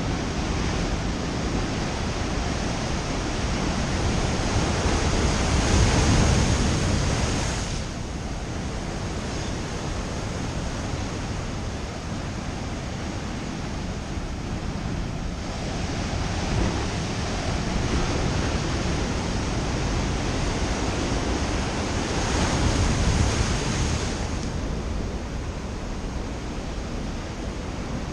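Ocean surf breaking and washing on a beach, a steady roar of noise that rises twice as waves come in, the first swell the loudest, with wind on the microphone.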